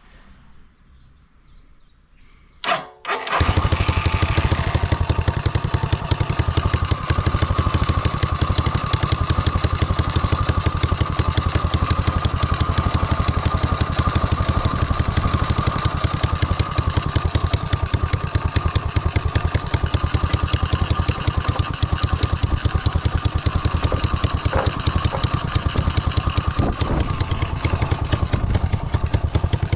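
A homemade go-kart's 250cc motorcycle engine starts about three seconds in after a brief crank, then runs steadily with a fast, even beat.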